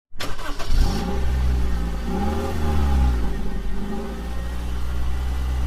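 Honda Element's four-cylinder engine revving in about three rises and falls over a steady low exhaust drone.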